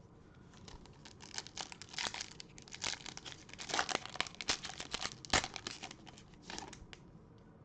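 A 2021 Bowman baseball card pack wrapper being torn open and crinkled by hand: a dense run of crackling and sharp clicks, with the sharpest click about five seconds in.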